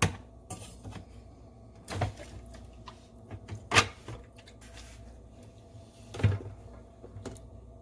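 Knocks, clatters and clicks of the coffee maker's plastic parts being handled, a panel or tray opened and shut, over a faint steady hum. There are about four louder knocks a couple of seconds apart, with lighter clicks between them.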